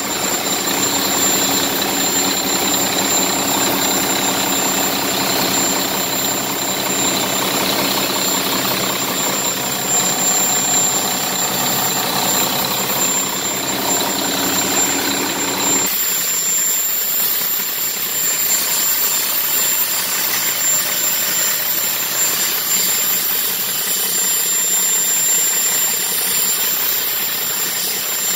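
Volvo D13 inline-six diesel engine running steadily at idle after a timing gear train repair, with a steady high whine over it. It runs without the gear rattle the loose bull gear had caused. About 16 seconds in, the low rumble abruptly drops away.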